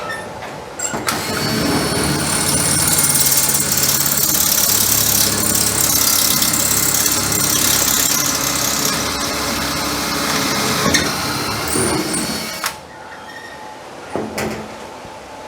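Power drill running steadily under load for about eleven seconds, starting about a second in and cutting off near the end.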